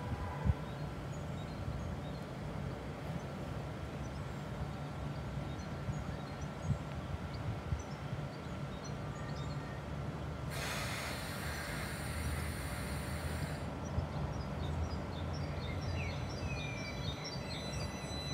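Class 333 electric multiple unit running slowly into a station platform, a steady low rumble from its motors and wheels. About ten seconds in a hiss sounds for some three seconds, and faint high chirps come near the end.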